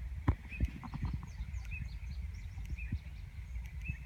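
Short bird chirps repeating about once a second, with fainter high falling notes between them, over a steady low rumble of wind and handling noise and a few sharp knocks in the first second or so.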